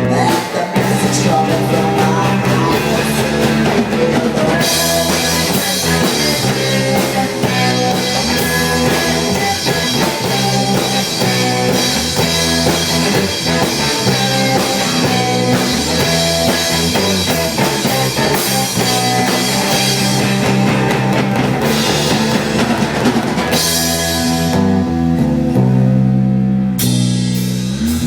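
Rock band playing an instrumental passage on drum kit, guitar and bass with a steady beat; the cymbals mostly drop out near the end while bass and guitar carry on.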